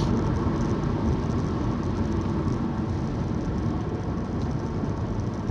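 Steady low engine and road noise from a car being driven.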